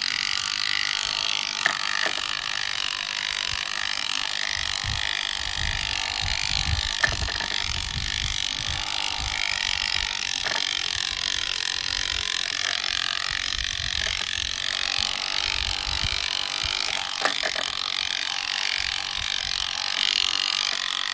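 Toy RC car's small electric motor and gears running steadily, with a few sharp clicks along the way.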